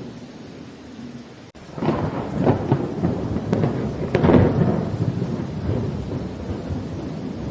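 Thunder over steady rain: about a second and a half in, a loud crackling thunderclap breaks out, strongest a little past the middle, then rolls on as a lower rumble.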